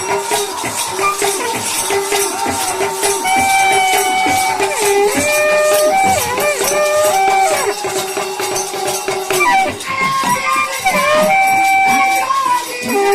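Bundeli devotional folk music: a melody of long held notes stepping between pitches over a steady drone, with fast jingling hand percussion throughout.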